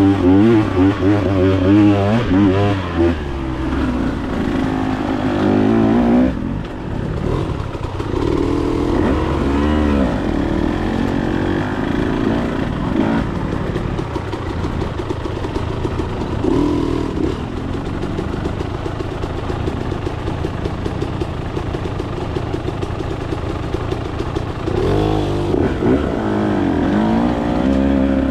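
Dirt bike engine being ridden, revving up and easing off again and again, loudest in the first few seconds and again near the end.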